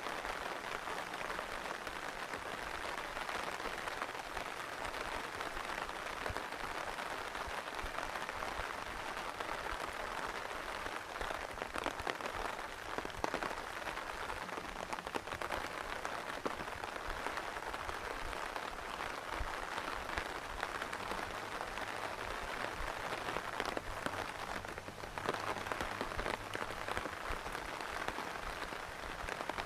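Heavy rain falling steadily: a dense, even hiss, with many close drops pattering and ticking through it.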